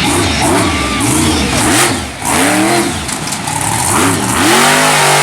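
Monster truck engine revving hard, the pitch rising and falling in about four surges, then held steady at high revs near the end.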